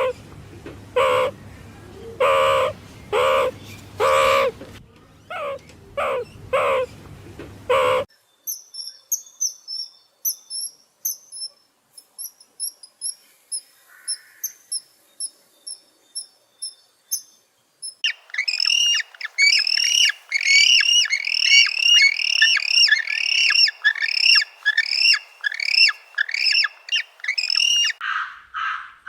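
A series of different birds calling. First comes a string of repeated calls for about eight seconds. Then thin, very high chirps follow for about ten seconds, and then a fast run of loud, falling chirps.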